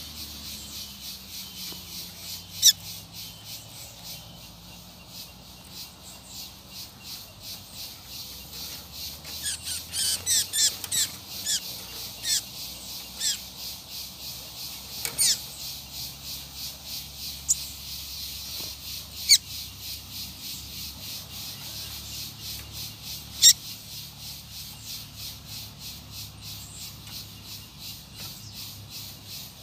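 Coleiros (double-collared seedeaters) calling with sharp, separate single notes and a quick run of notes around ten seconds in. Under the calls runs a steady pulsing insect chorus.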